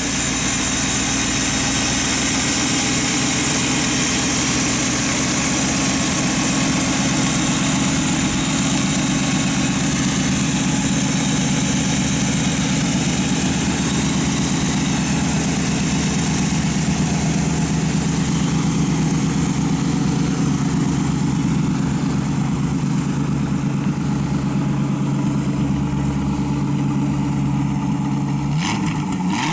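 Chevrolet small-block V8 in a Ford Model A pickup hot rod idling steadily through headers and dual exhaust. The revs rise briefly near the end.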